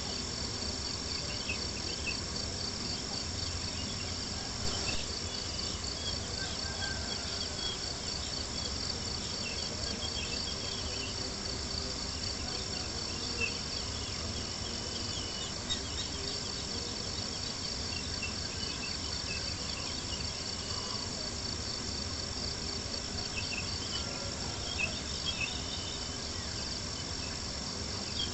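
Steady chorus of crickets chirping, with campfire wood crackling in short ticks and a few louder pops.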